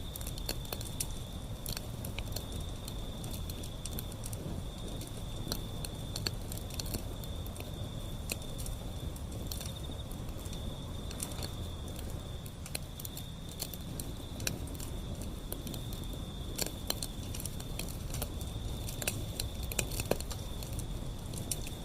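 Wood fire burning with a low steady rumble and irregular sharp crackles and pops, a few louder pops near the end. A steady high cricket trill runs behind it.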